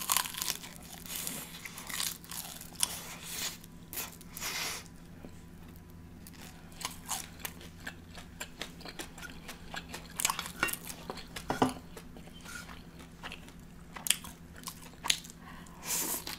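Close-miked biting, crunching and chewing of a crispy oven-fried chicken wing: irregular crunches and sharp mouth clicks with short pauses between them.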